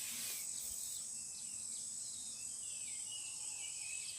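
Faint steady insect trilling, cricket-like, with a few short falling bird chirps over it.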